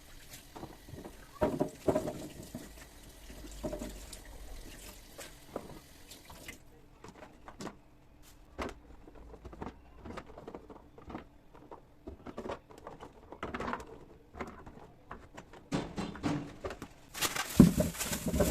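Kitchen handling sounds: scattered light knocks and clatters of produce and containers being moved. Near the end a sink tap is turned on and runs with a steady rush of water.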